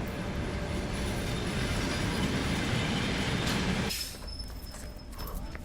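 A train running along the rails close by, with steady rolling noise from wheels and cars. The noise cuts off sharply about four seconds in, leaving a much quieter background.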